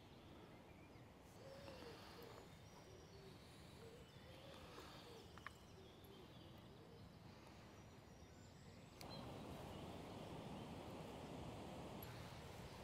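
Faint outdoor quiet with distant birds: low, wavering calls repeat through the first half, with a few faint higher chirps. The background hiss steps up about nine seconds in.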